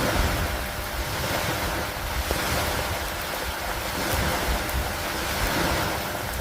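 Steady rain falling on lake water and wooden dock planks: a dense hiss that swells and eases every couple of seconds, over a low rumble.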